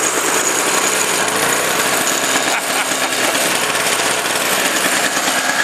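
Small two-stroke push snowblower engine running steadily at working speed.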